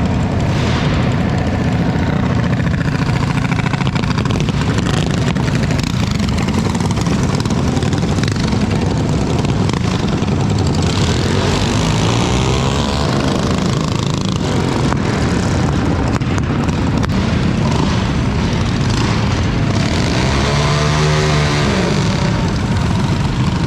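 Mini bike engines running in a loud, continuous din, with an engine pitch rising and falling about halfway through and again near the end.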